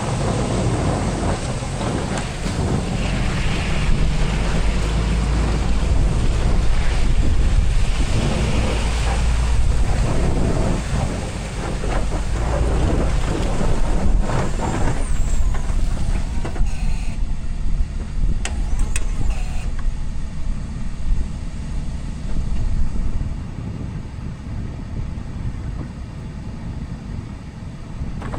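Diesel pickup truck running while plowing snow: a steady low engine rumble under a rough rushing noise that eases about halfway through, leaving a quieter rumble with a few clicks.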